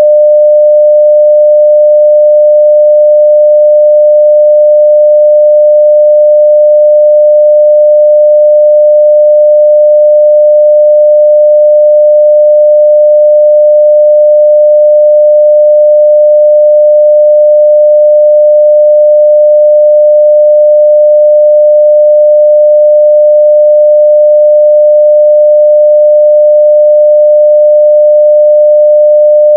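A 600 Hz sine-wave test tone at full level (0 dB), one pure unchanging pitch.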